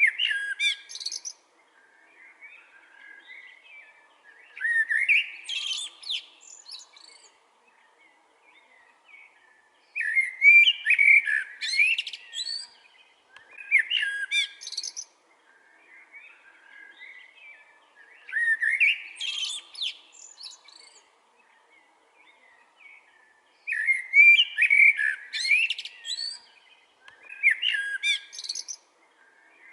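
Blackbird singing: full, melodious whistled phrases, each ending in a high twitter, repeated about every four to five seconds with softer warbling in the pauses.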